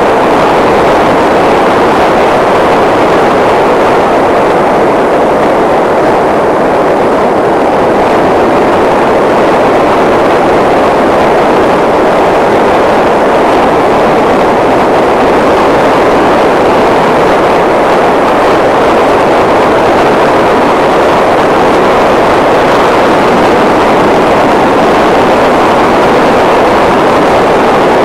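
Loud, steady rush of wind and road noise while riding a bike, with no clear engine note and no change in pace.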